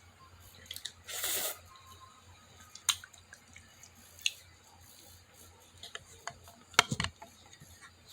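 Wet kitchen handling of cooked instant noodles and water: a brief splash or drip about a second in, then scattered light clicks and knocks of a bowl being handled.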